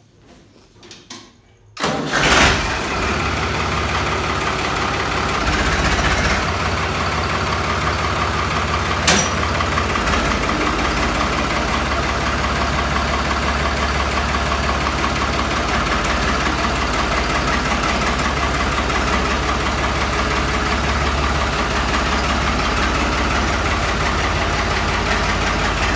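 Tractor engine starting about two seconds in, then running at a steady idle, with one sharp click partway through.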